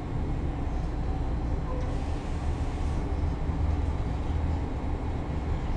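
MARTA rapid-transit rail car running along the line, heard from inside the passenger cabin: a steady low rumble of wheels and running gear with an even haze of track noise above it.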